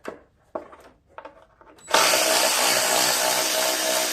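A few light clicks of a socket being set on a bolt, then about two seconds in a power drill-driver starts and runs steadily, spinning out an 8 mm bolt that holds the mower's engine shroud.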